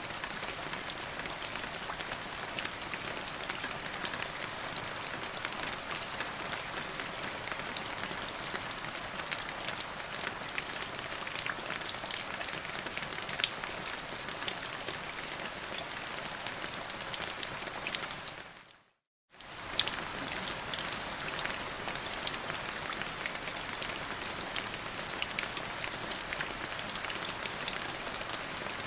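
Steady rain in a rainstorm, a dense patter of many small drop impacts. About two-thirds through it fades out and drops to silence for about half a second, then comes straight back.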